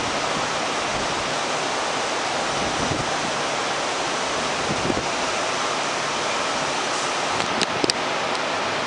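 Heavy rain pouring down steadily as an even hiss, with a few short ticks near the end.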